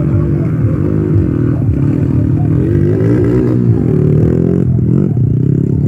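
Motocross motorcycle engines revving hard, their pitch rising and falling with the throttle as the bikes race. More than one engine can be heard at once.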